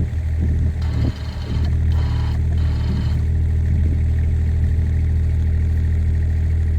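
Kubota mini excavator's diesel engine running steadily while its hydraulics spin the newly fitted post-hole auger in a test run. A higher whine comes and goes in short spells during the first three seconds.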